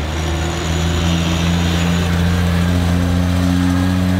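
A vehicle engine running with its pitch slowly rising as it picks up revs.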